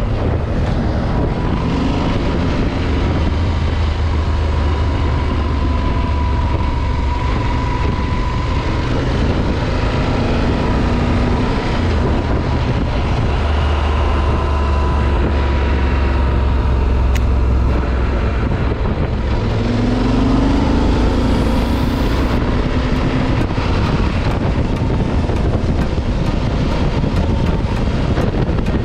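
Motorcycle engine running steadily while riding on the road, its pitch shifting a little as the speed changes.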